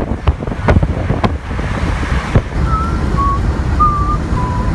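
A steady low rumble with wind buffeting the microphone. Several sharp knocks come in about the first second. Four short, steady tones, each a little different in pitch, follow in the second half.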